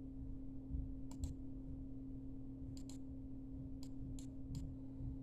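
Seven small, sharp clicks: two quick pairs, then three single clicks spaced about a third of a second apart. They sit over a steady low electrical hum.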